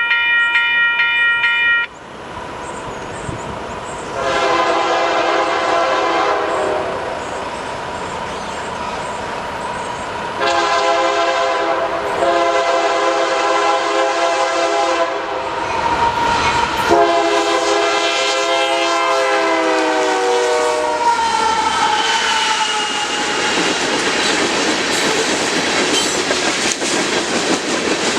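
Union Pacific freight locomotive's multi-chime air horn sounding four blasts on approach. The last blast slides down in pitch as the lead locomotive passes. It is followed by the steady rumble and clatter of the locomotives and rock-train cars rolling by.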